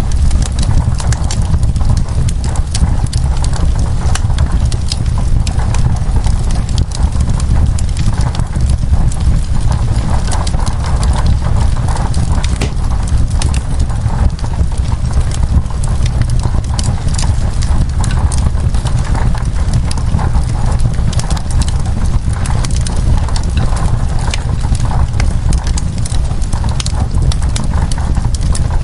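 Fireplace crackling: frequent sharp, irregular pops and snaps over a steady low rumble, with an even hiss of rain on window glass.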